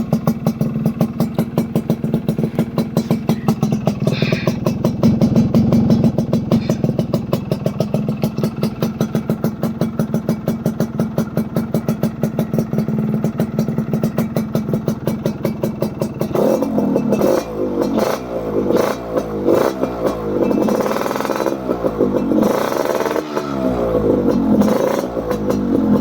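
Yamaha RX135 two-stroke single-cylinder engine with an expansion-chamber exhaust, idling with a steady, even pulse, then revved repeatedly from about two-thirds of the way through, its pitch climbing and falling with each blip of the throttle.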